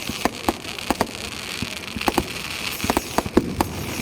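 Fireworks display going off in quick succession: many sharp bangs and cracks at uneven intervals over a steady crackling hiss.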